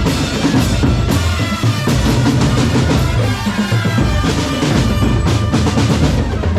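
Drum corps playing loudly: bass drums and snare drums in a busy rhythm with a melody sounding over them.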